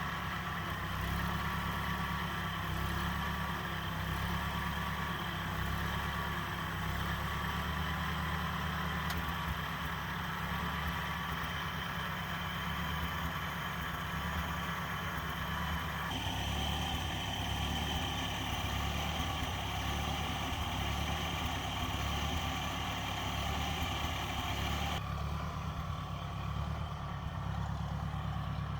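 1956 Ford tractor engine running steadily at idle while it warms up. The higher part of the sound changes abruptly twice, about 16 and 25 seconds in.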